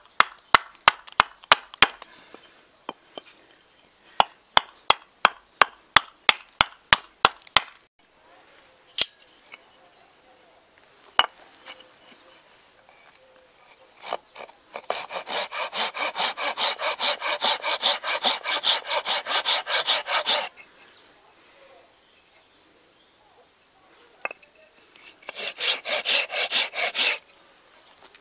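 Axe chopping into a seasoned alder spoon blank, sharp strikes at about four a second in two runs, then a few single knocks. Then a hand saw cutting the dry wood in quick, even strokes, a long spell in the middle and a shorter one near the end.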